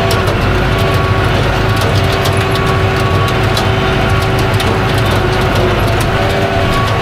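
A steady engine hum with a few held tones and scattered clicks and rattles over it, like a running vehicle.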